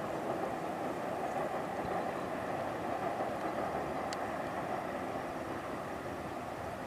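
Steady, even rolling noise of passing vehicles, with no distinct rhythm, horn or engine note.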